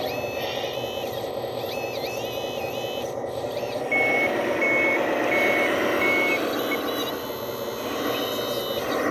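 Heavy machine's reverse alarm beeping about five times at an even pace, a little under one beep a second, over a diesel engine running steadily.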